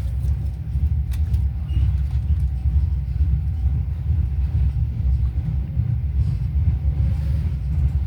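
GWR High Speed Train (InterCity 125) running, a steady low rumble heard from aboard, with a couple of faint clicks about a second in.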